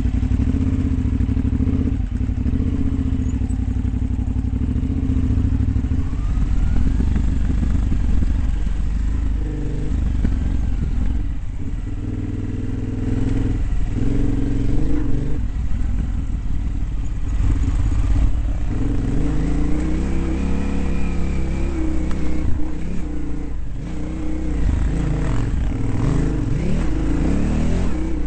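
Dirt bike engine running hard, its revs rising and falling again and again, with a long climb and drop about twenty seconds in.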